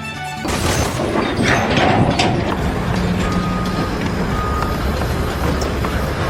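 Heavy vehicle engine running amid loud, steady site noise, with two short high beeps about a second apart near the middle, like a reversing alarm.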